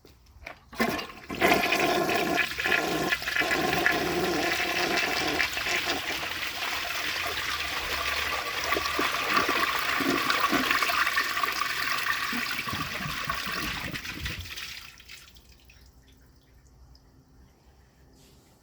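1969 American Standard Cadet elongated toilet flushing. Water starts rushing suddenly about a second in, runs steadily for about fourteen seconds, and then dies away.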